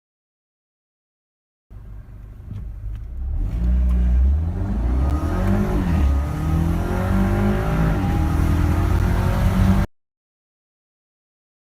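Audi A3 8P's engine accelerating hard through the gears, its note rising and then dropping at each shift. It starts about two seconds in and cuts off suddenly near the end.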